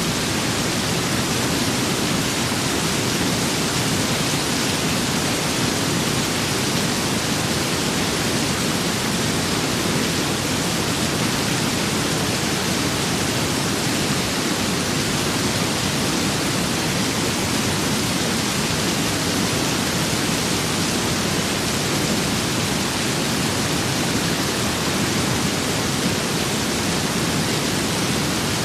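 Steady rain with wind: an even, unchanging hiss with no separate drops, gusts or thunder standing out.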